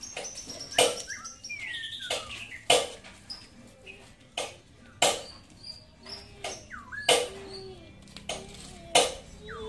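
Birds chirping and whistling in short gliding notes, cut through by a sharp, loud sound about every two seconds.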